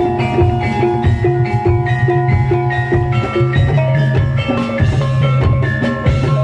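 Gamelan music of the kind that accompanies a barongan dance: metal mallet instruments strike a quick, repeating pattern of notes over a steady low drum beat.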